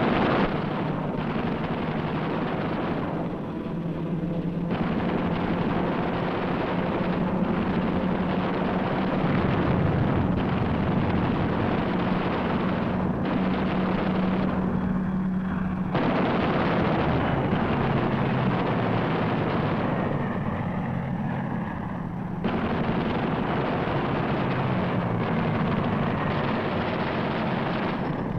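Combat-film soundtrack of aircraft engines droning steadily, with gunfire and explosions over it. The mix changes abruptly at cuts about 5, 16 and 22 seconds in.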